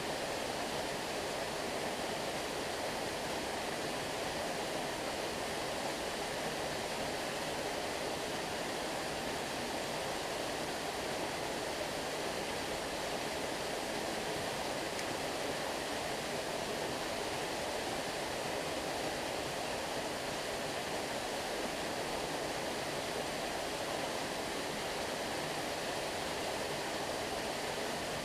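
Steady rushing of flowing stream water, an even, unbroken wash with no distinct splashes.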